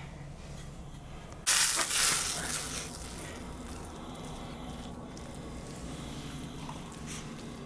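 Cooking sizzle: a sudden loud hiss about one and a half seconds in that dies away over a second or two, over a low steady hum.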